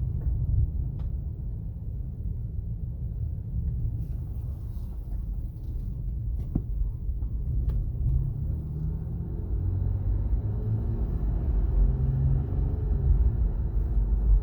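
2017 Acura MDX on the road: steady low road and tyre rumble. About ten seconds in it builds as speed picks up, and a faint high whine comes in. The owner says the whine rises with speed and places it probably at the front passenger side.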